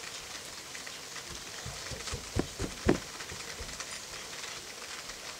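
Steady rain hissing, with a run of soft low thumps in the middle, the loudest about three seconds in.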